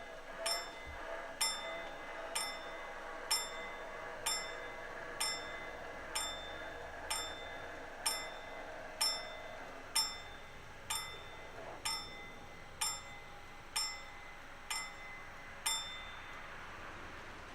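Level-crossing warning bell of an old WSSB Hs 64 barrier installation, struck about once a second in a steady series of single clear dings that stops near the end, warning that the barriers are closing.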